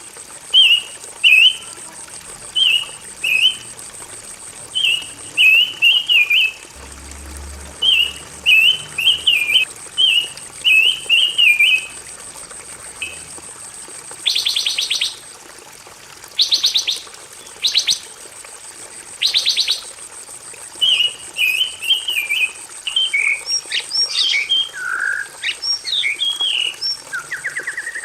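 Pancawarna songbird singing rapid runs of short, high chirping notes, broken in the middle by a few harsh buzzy trills, with varied sweeping notes near the end. A thin steady high whine runs underneath.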